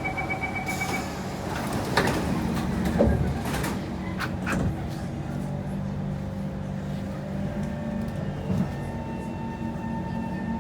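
Door-closing beeps inside a Kawasaki C151 MRT train car, then the sliding doors knocking shut a few times about two to four seconds in, over the steady hum of the car's equipment. Right at the end the traction motors start a rising whine as the train pulls away.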